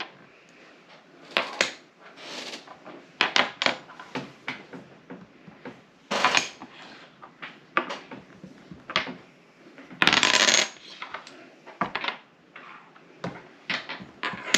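Small hard game pieces clicking and rattling on a tabletop: many short sharp clicks, with a few longer rattles, the loudest about ten seconds in.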